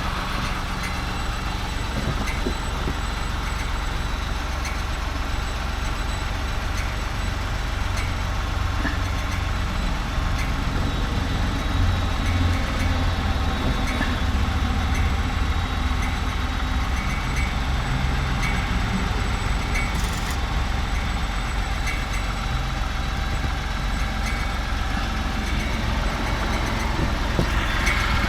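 Ford F-150 3.5L V6 engine idling steadily, with a light, tinny metallic tapping that the owner thinks sounds like the fan hitting the exhaust.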